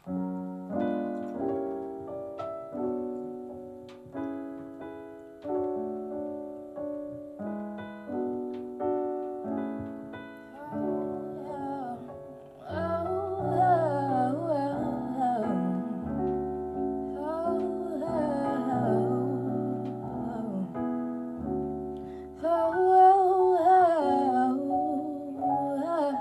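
Live band intro: electric piano chords played alone for about twelve seconds, then bass and cymbals come in, with a woman singing wordless runs over the groove.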